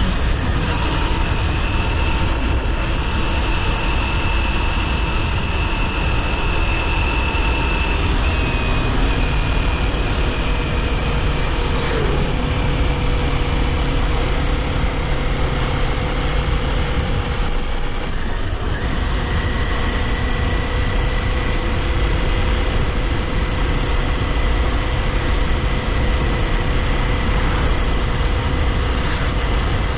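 Kawasaki Ninja 400's parallel-twin engine pulling at a steady cruise, with heavy wind rumble on the camera microphone. The engine note holds nearly constant and shifts slightly in pitch a couple of times.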